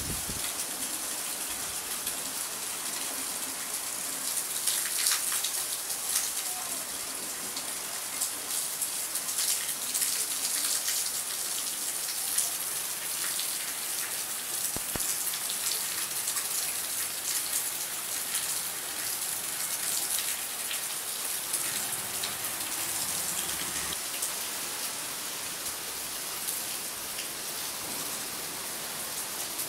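Steady rain falling: a dense hiss of drops with close spatters, swelling louder briefly a few times in the first half.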